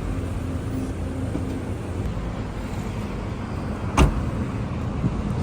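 Steady car and road-traffic rumble, with one sharp click about four seconds in.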